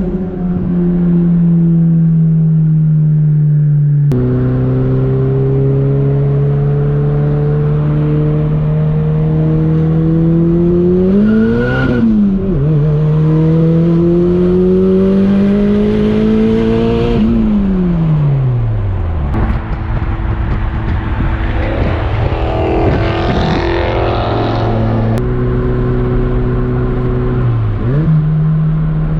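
Turbocharged Honda Prelude engine under way, its pitch holding steady and then climbing slowly under throttle twice, falling away as it slows, and jumping back up near the end.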